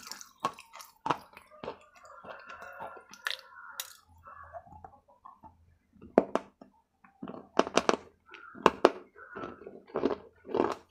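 Close-miked biting and chewing of a hard, brittle shard of dark clay pot: sharp crunches in the first two seconds, softer muffled chewing, then a run of loud crunches from about six seconds in.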